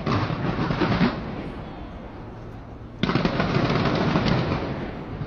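Skyscraper fireworks going off in dense volleys of crackling. A burst at the start dies away within about a second, then a second volley breaks out suddenly about three seconds in and slowly fades.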